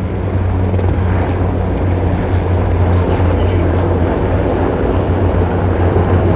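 Formation of military helicopters flying overhead, a loud, steady low rotor-and-engine drone.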